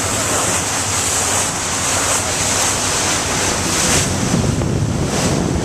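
Wind buffeting the microphone and water rushing past the hull of a boat under way, with a steady low engine hum underneath.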